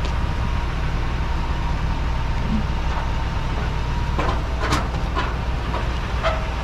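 A vehicle engine idling steadily, a low rumble with a faint steady whine, joined by a few sharp knocks about four to five seconds in.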